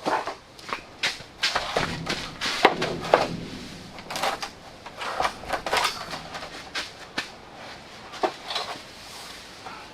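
Irregular knocks, clatters and rustling from hands-on outdoor work, with the sharpest knocks clustered near the start and again around the middle.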